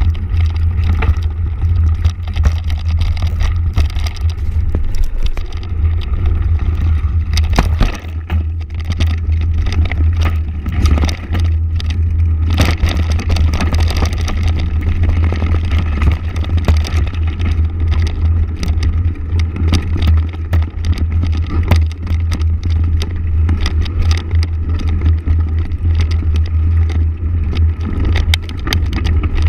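Motorcycle engine running steadily while riding, a continuous low drone with frequent short knocks and rattles over it.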